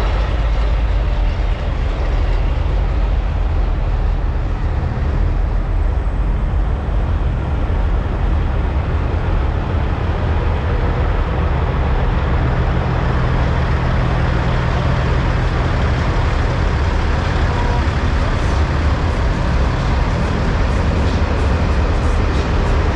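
Diesel engines of semi trucks running: a loud, steady low rumble.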